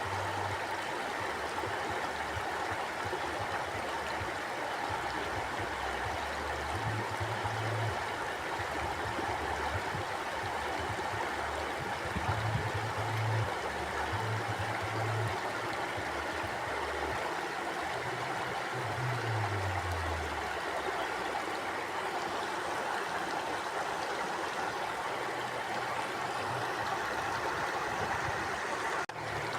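Mountain stream flowing steadily over rocks, an even rushing of water with uneven low-pitched pulses underneath. The level dips briefly near the end.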